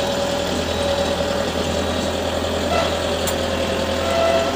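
Diesel engine of farm machinery running steadily at idle, a continuous low hum with a steady whine over it.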